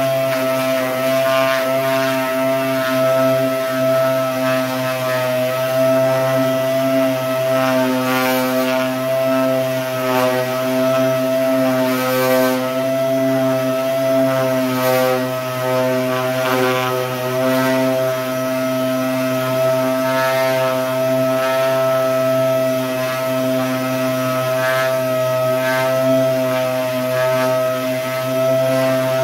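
Dual-action (DA) sander running steadily with a constant high whine, sanding down primer on the flat side panel of a truck bed, with brief scratchy hisses every few seconds as the pad is worked across the panel.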